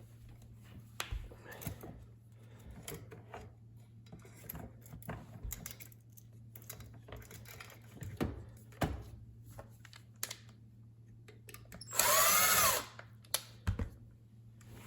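A power drill runs in one short burst of about a second, about twelve seconds in, its motor pitch rising and falling with the trigger. Scattered clicks and knocks of tools and parts being handled come before and after it.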